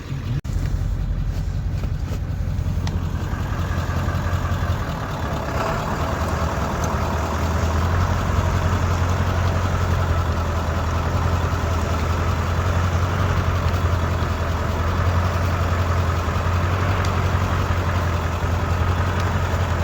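Truck engine running steadily under load while pulling a trailer out of deep mud, its hum getting stronger from about five seconds in. A short knock sounds right at the start.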